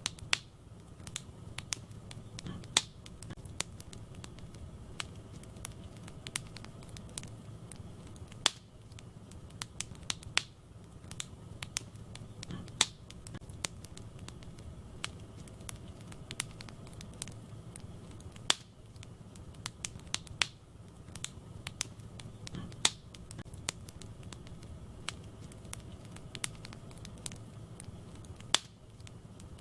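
Wood fire burning in a fireplace: irregular sharp crackles and pops from the burning logs over a low steady rumble of the flames, with a few louder pops scattered through.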